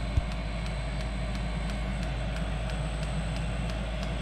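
Chinese diesel heater running as it warms up after starting: a steady fan hum with its fuel pump clicking in a fast regular tick, about four a second. One brief thump just after the start.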